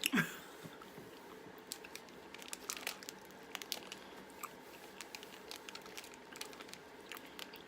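Sticky Maynards Fuzzy Peach gummy candy being chewed: faint, scattered wet clicks and smacks of the mouth, with a brief vocal sound right at the start.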